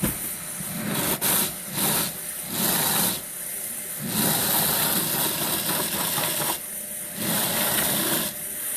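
Converted garbage disposal running with wire flails bolted to its shaft, threshing hulless oat heads as they are pushed in with a plunger: a dense rattling hiss that surges louder and drops back several times.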